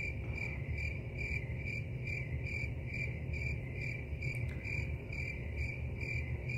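Crickets chirping: a steady, regular high chirp about three times a second over a low steady rumble. It is used as the comic 'crickets' sound effect for a stunned silence.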